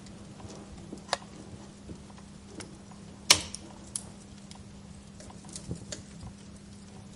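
Wood fire crackling in a fireplace: irregular pops and snaps over a soft hiss, with one sharp loud pop about a third of the way in. A faint steady low hum lies underneath.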